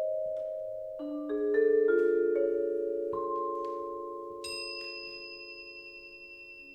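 Vibraphone notes struck softly and left ringing, with a cluster of new notes about a second in, then a high bell-like crotale note about four and a half seconds in that rings on as the whole sound slowly dies away.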